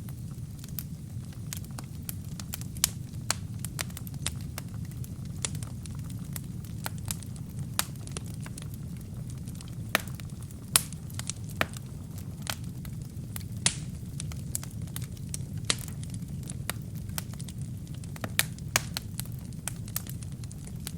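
Burning wood fire crackling: irregular sharp snaps and pops over a steady low rumble of the flames, a few louder pops about ten and fourteen seconds in.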